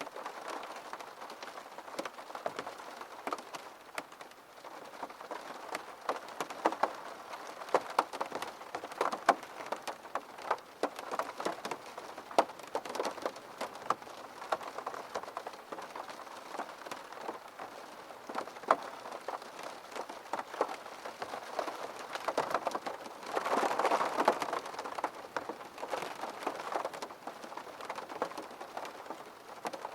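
Rain pattering on a window pane: a steady wash of rain dotted with many sharp taps of single drops, swelling louder for a couple of seconds about three quarters of the way through.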